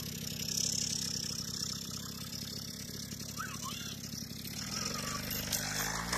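50cc Coolster dirtbike engine running as the bike is ridden around, with its pitch rising near the end as the throttle opens.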